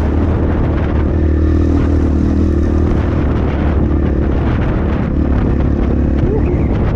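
Templar X 250 dirt bike engine running at a steady pitch while riding, with wind noise on the microphone.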